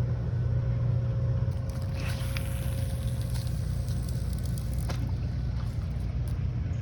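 A motor running steadily: a constant low hum with a thin higher tone over it, and a few light clicks about two and five seconds in.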